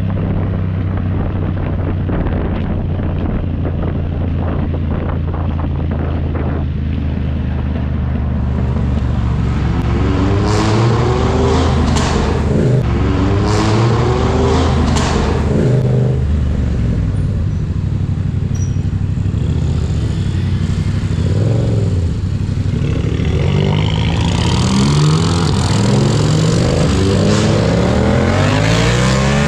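Yamaha MT-07's parallel-twin engine with an aftermarket exhaust, first running at a steady note, then accelerating with rising pitch broken by quick gear shifts about a third of the way in, and pulling up through the revs again near the end.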